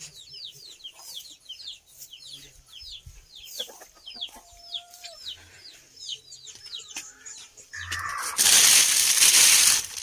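A bird peeping over and over, short high calls a little over twice a second. Near the end, loud rustling and crinkling as a plastic sheet is lifted and handled.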